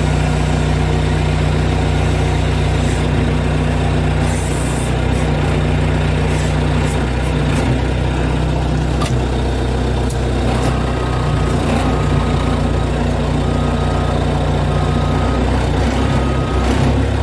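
Truck engine running steadily under load while a stuck truck is pulled out on a tow strap. From about ten seconds in, a short high electronic beep repeats roughly every 0.7 seconds.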